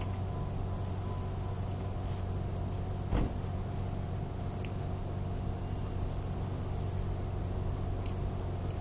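Jeep Grand Cherokee idling with a steady low hum, with one short click about three seconds in.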